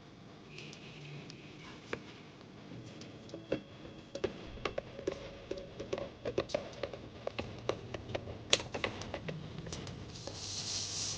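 Small parts being handled and fitted by hand while a blender is serviced: a run of irregular light clicks and taps, thickest in the middle, then a short hiss near the end.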